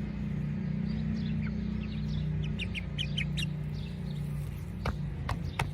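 Buff Orpington chicks giving short, quick 'yip yip' chirps, a cluster of them in the middle, over a steady low hum. These are relaxed, happy chick sounds that do not mean anything is wrong.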